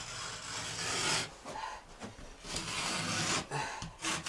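Knife cutting a sheet of drywall (gypsum board): a few long scraping strokes, each about a second.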